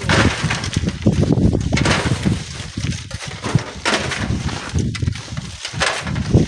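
Strong wind buffeting the microphone: a loud, gusting rumble that rises and falls every second or so.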